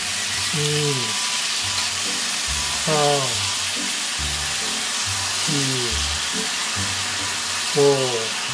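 Chicken wings sizzling steadily in a frying pan as soy sauce is spooned in. Background music with low bass notes and short falling tones runs alongside.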